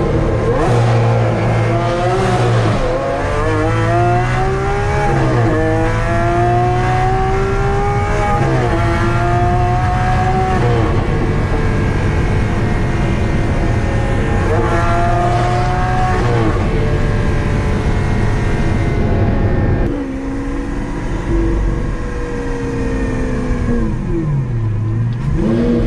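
Lamborghini Aventador SV's V12 through an Fi aftermarket exhaust, accelerating hard through several gears. The pitch climbs in each gear and drops sharply at each upshift. Later it pulls again briefly, then settles lower, with a dip and a rev back up near the end.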